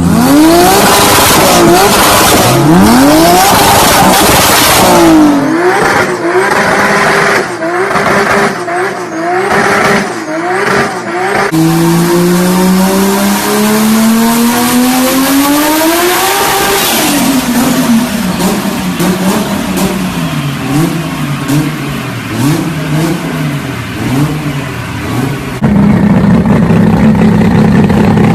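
High-horsepower turbocharged car engines revving hard in a string of cut-together clips. A climb through the revs comes first, then a run of quick rev blips, then one long pull rising for several seconds and falling away, then more blips. A steady engine drone takes over near the end.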